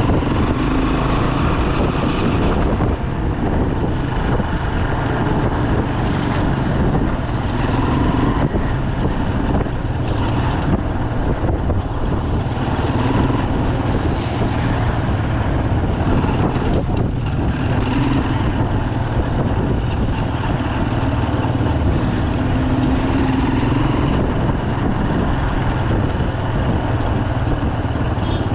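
Bajaj Pulsar 200's single-cylinder engine running steadily while riding, with rumble and traffic noise around it.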